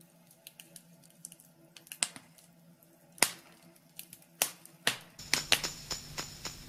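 Wood fire crackling in a fireplace: scattered sharp snaps and pops, a few of them much louder. About two-thirds of the way through the crackling grows busier and a low rumble joins it.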